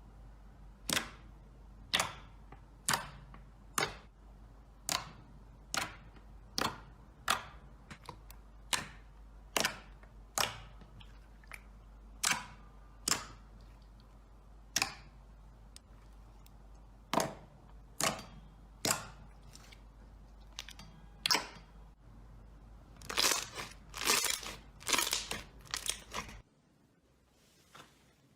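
Slime being pressed and played with by hand, giving sharp crackling clicks about once a second, then a quick run of crackles just before the sound cuts off.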